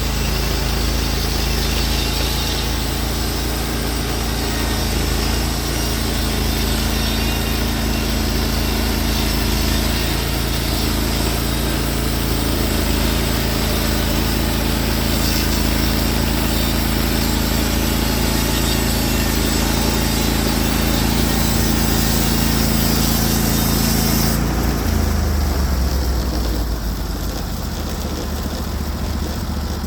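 Norwood HD36v2 portable bandsaw mill's engine running under load as the band blade saws through a spruce log, with a steady hiss over the engine. About 25 seconds in the cutting hiss stops and the engine note drops toward idle.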